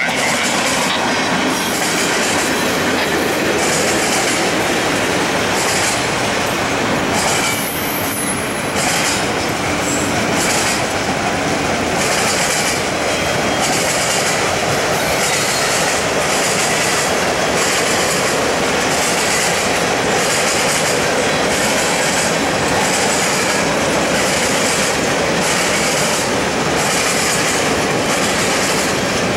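Freight cars rolling across a steel girder bridge: a steady rumble and rattle of wheels and car bodies, with a rhythmic clatter about once a second.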